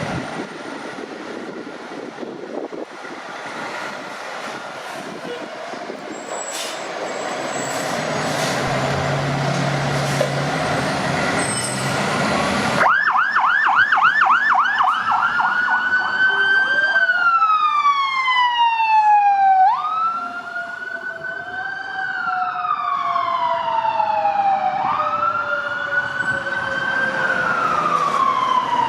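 Fire apparatus responding under lights and sirens: first a heavy rumble of engine and road noise that builds, then the siren starts abruptly in a fast yelp and shifts to a wail that jumps up and slides down about every two and a half seconds. A second, lower siren sounds beneath it, gliding slowly downward.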